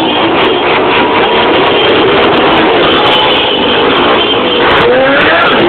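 Car engine revving loudly, heavily distorted, its pitch rising and falling a few times over a dense wash of noise.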